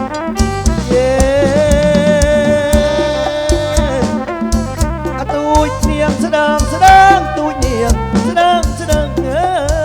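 Kantrum band playing live through a PA: a held, wavering lead melody over a steady drum beat and bass.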